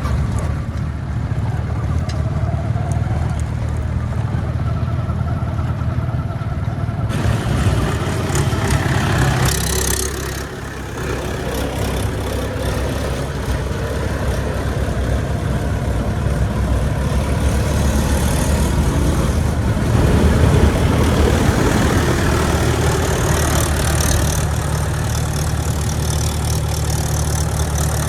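Heavy diesel engine running steadily; about seven seconds in the sound turns suddenly noisier and harsher.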